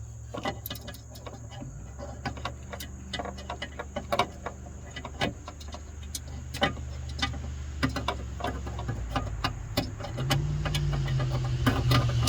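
Scattered small clicks and knocks of an LED headlight bulb being handled and fitted into its headlight housing, over a steady low hum that grows louder about ten seconds in.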